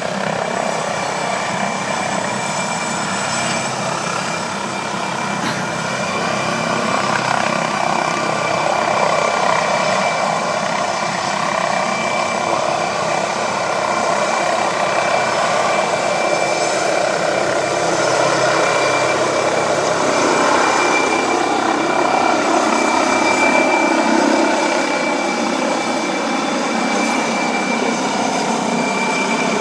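Helicopter running at close range during take-off: a steady high turbine whine over dense rotor and engine noise, which swells slowly and ebbs in loudness.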